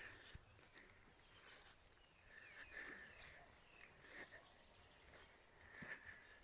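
Quiet outdoor ambience with faint bird calls: short high chirps and a brief buzzy call repeated three times, with a few soft clicks.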